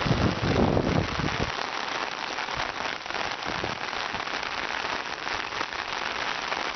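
A foot splashing in street floodwater for about the first second and a half, then heavy rain falling steadily, a dense hiss of many small drop ticks.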